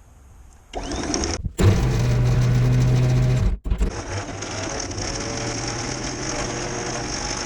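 An electric anchor windlass hauls the anchor rode in and down into the chain locker, with a steady mechanical grinding and hum. It starts about a second in, stops briefly twice in the first four seconds, then runs on steadily and somewhat quieter.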